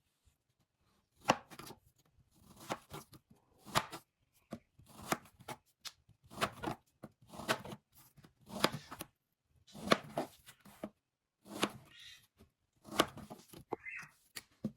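A blade cutting bamboo in repeated strokes, about one every second or so. Each stroke is a sharp crack followed by a short rasp.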